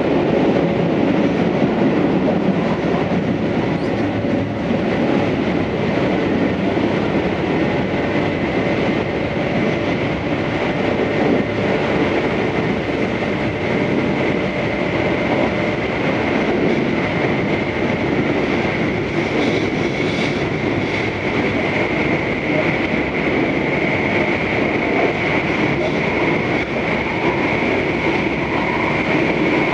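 Tobu 634-series electric train running between stations, heard from inside the car: a steady rumble of wheels on rail, with a thin high tone that grows stronger over the second half.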